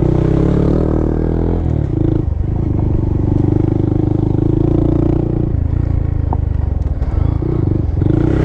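Honda Monkey's small single-cylinder engine running under way, the throttle easing off and picking back up a few times, about two, five and a half, and eight seconds in.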